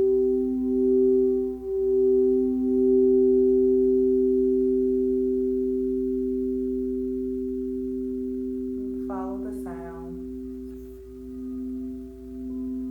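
Two crystal singing bowls sounding together as two steady, pure tones, one lower and one higher, pulsing in a slow wah-wah. The sound gradually fades through the middle, and the pulsing returns near the end as the bowls are played again.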